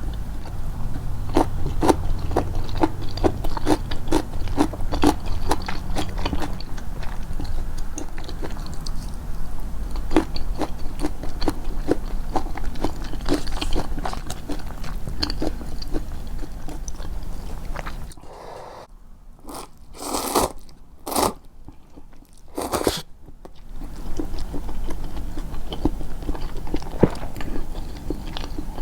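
Close-miked chewing and crunching of crisp food, with many sharp bites in quick succession. The sound drops away for a few seconds past the middle, leaving a few separate mouth sounds, then the crunching starts again.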